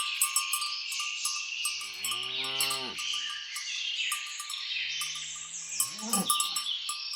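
Cows mooing twice, each low call lasting more than a second, the second rising in pitch at its end. Behind them runs a constant chorus of chirping birds and trilling insects.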